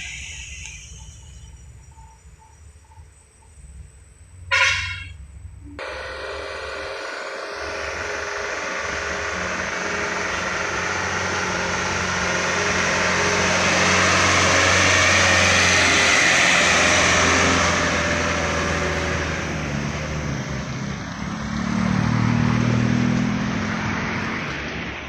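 A vehicle air horn sounds once for about a second, then a heavy vehicle's engine comes up, grows loud toward the middle and fades away again as it passes.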